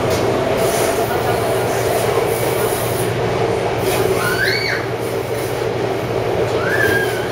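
Taipei Metro C301/C371-series train running along the track: steady running noise with a hum. Two short rising whines come about four and seven seconds in.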